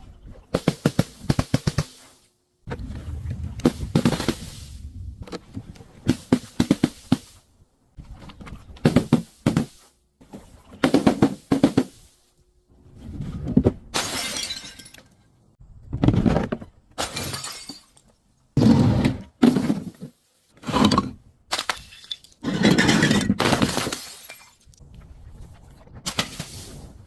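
Glass and crunchy objects being crushed and broken: about a dozen separate bouts of cracking and crunching, each about a second long, with short silences between them.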